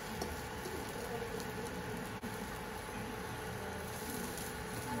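Rolled omelette frying in a little oil in a nonstick wok: a low, steady sizzle, with a faint steady hum underneath.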